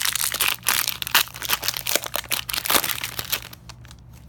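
Plastic trading-card pack wrapper crinkling and crackling as it is handled, dying away near the end.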